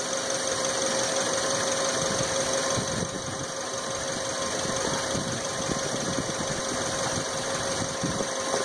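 Car engine idling steadily, heard close up in the open engine bay.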